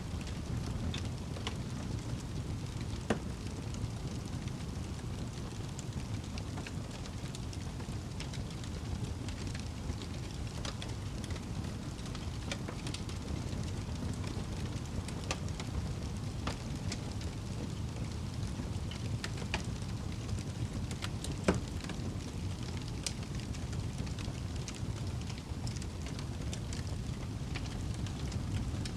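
Wood fire burning in a fireplace: a steady low rumble of flame with constant small crackles and pops, and a louder pop about three seconds in and another about two-thirds of the way through.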